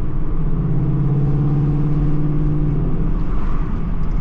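Loud car exhaust droning while driving. The steady engine note drops to a lower pitch about half a second in, then fades about three seconds in.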